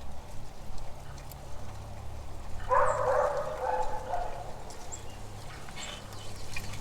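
An animal call lasting about a second and a half, starting a little under three seconds in, over a steady low hum.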